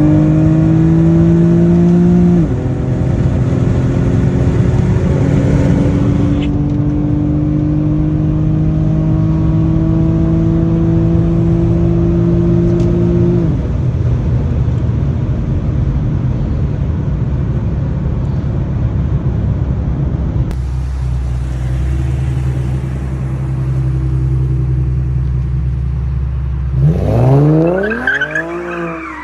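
Infiniti G37's muffler-deleted VQ V6 pulling hard under full throttle, its pitch climbing, with an upshift about two and a half seconds in. It then climbs again through a long pull until it lets off to a steadier cruise. Near the end comes one quick, steep rev.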